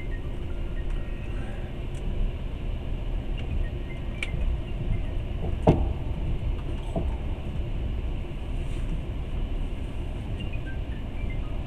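Passenger train running on the rails: a steady low rumble of the moving carriage, with one sharp knock a little under six seconds in.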